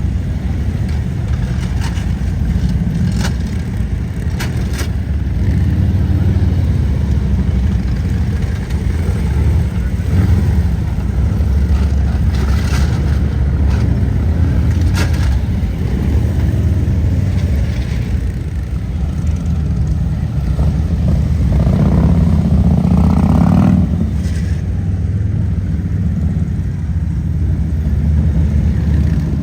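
Motorcycle engines running at low speed, with one engine swelling up and back down about three quarters of the way through. A few sharp clicks are heard along the way.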